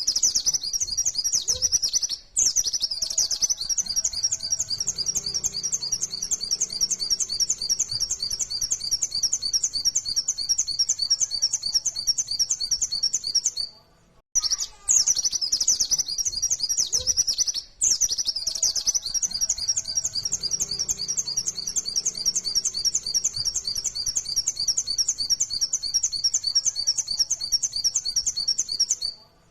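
A white-eye (pleci) singing long, fast runs of high chattering notes, the rapid-fire 'nembak' song. The song breaks off briefly about two seconds in, around the middle and again a few seconds later.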